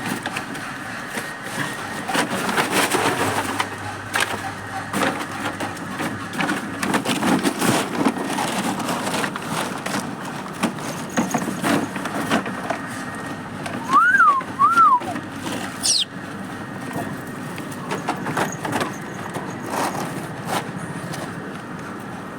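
Dogs scuffling and playing in loose black soldier fly frass: continuous rustling and scraping with scattered clicks. Two short squeaks, each rising then falling, come about two-thirds of the way through.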